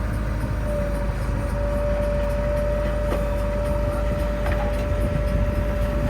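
Heavy diesel earthmoving machinery running steadily with a low rumble. A steady high whine sets in about a second in and holds on.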